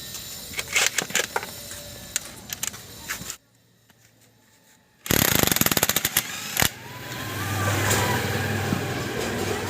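Metal tools clicking and knocking against alternator parts, then a short, rapid rattle of knocks. After that a steady low hum sets in.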